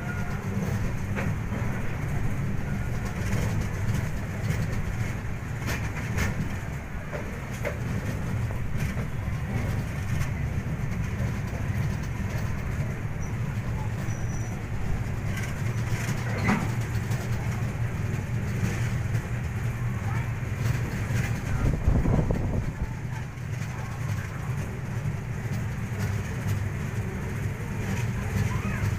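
Passenger train running on the rails: a steady low rumble of the moving coach, with scattered faint clicks and a louder low thump about twenty-two seconds in.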